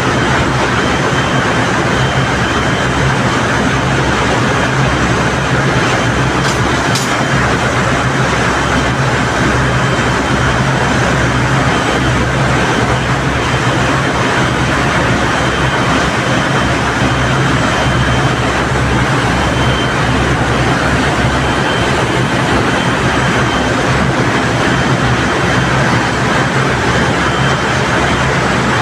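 Main engine lube oil purifier, a centrifugal separator, running at speed: a loud, steady machine drone with a low hum and a thin, constant high tone over it.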